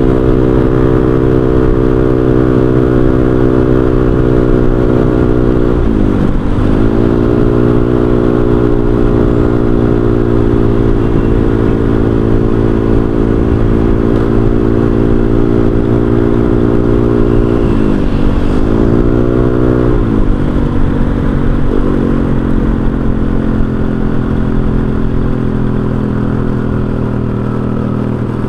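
Honda Vario 125 scooter's single-cylinder engine running through an aftermarket racing exhaust, cruising at a steady throttle. Its note drops and climbs back as the throttle is eased off and reopened, about a fifth of the way in, and twice more past the middle.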